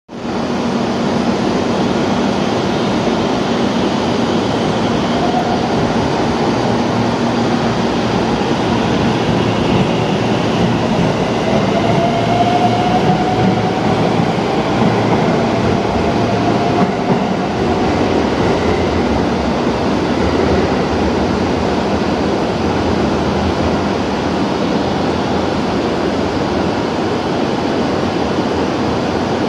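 IR Ishikawa Railway 521 series electric train running past along a station platform: a steady rumble of the train on the rails, with a faint whine that rises in pitch about halfway through.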